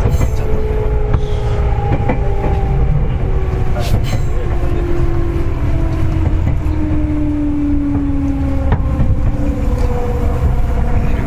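Seibu 4000 series train, heard from inside the car: a steady low running rumble from the wheels and bogies, with a whine from the motors and gears that falls slowly in pitch as the train slows. A few sharp clicks come from the wheels over the rail.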